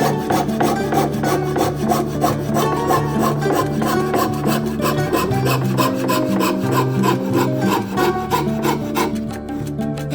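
Hand fretsaw cutting wood: quick, regular back-and-forth strokes, over background music.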